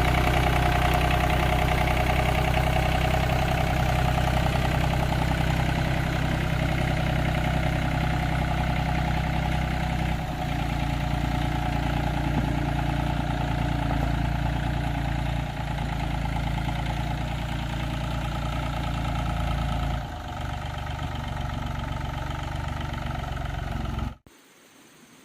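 A tractor engine running steadily at a constant speed, cutting off suddenly near the end.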